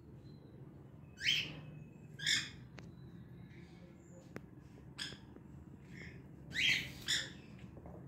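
A bird giving a series of short, harsh squawking calls, five loud ones spread unevenly through the passage with a few fainter calls between them.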